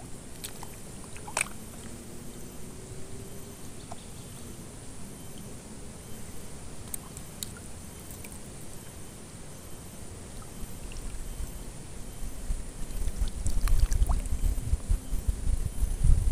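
Wind buffeting the microphone, a low rumble that grows much stronger in the second half, with a few faint clicks.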